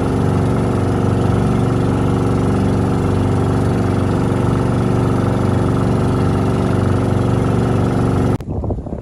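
A local tour boat's engine running steadily at a constant speed, loud and close. It cuts off abruptly near the end, leaving quieter wind noise.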